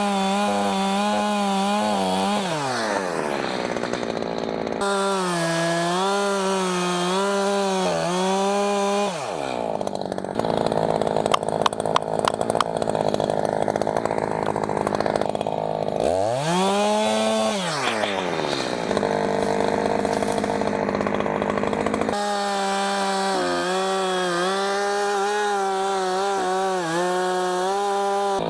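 Echo 620P two-stroke chainsaw running at high revs while bucking storm-downed hardwood. The engine note drops and climbs back several times, with a rougher stretch in the middle.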